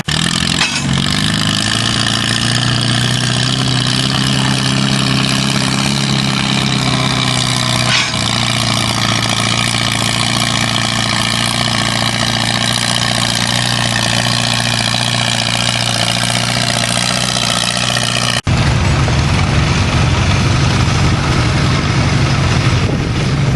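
Antique tractor engine running steadily at a nearly constant pitch. An abrupt cut about 18 seconds in switches to a louder, rougher stretch of engine noise.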